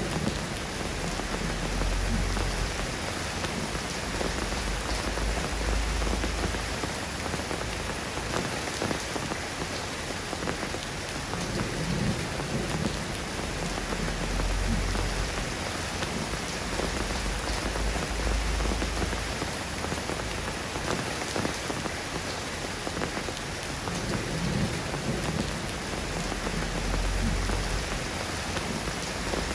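Steady rain falling, an even hiss of many drops, with a low rumble that swells and fades several times underneath.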